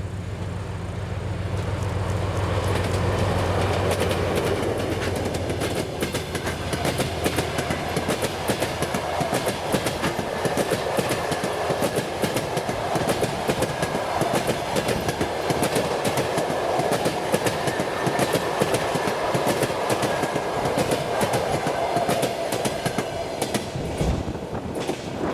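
2TE10Ut diesel locomotive passing with its low engine drone over the first few seconds, then the passenger coaches rolling by, wheels clicking rapidly over the rail joints with a steady rumble.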